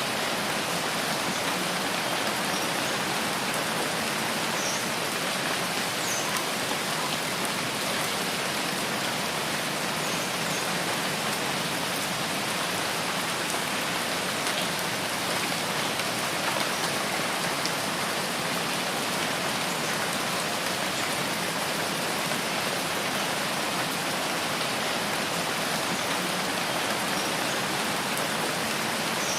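Steady rain falling in a rainforest, an even, unchanging hiss of rain, with a few faint, short high-pitched chirps scattered through it.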